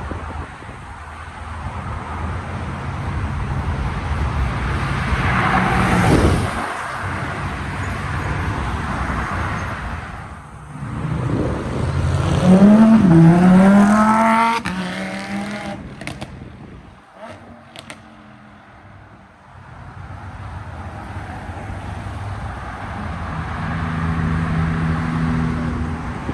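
Car engines passing by. About halfway through, one engine revs up loudly, its pitch climbing and dipping. A steady engine hum comes back near the end.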